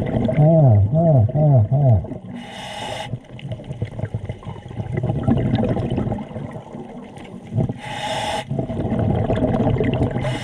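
Scuba diver breathing underwater through a regulator: three short hisses of inhaled air, about two, eight and ten seconds in, with gurgling exhaled bubbles between them. A run of four pitched groans comes in the first two seconds.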